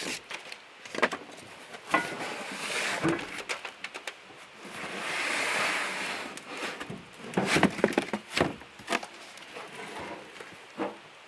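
Unboxing a heavy cast-iron grill: scattered knocks and clunks as the pieces and packaging are handled, with a stretch of rustling packaging about halfway through.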